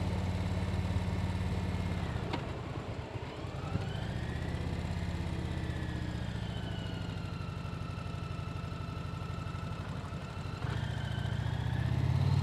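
Motorcycle engine running under way, heard from the rider's seat. About two seconds in it clicks and drops off briefly, as in a gear change, then pulls again. Near the end it steps up louder, with a faint whine rising and falling above it.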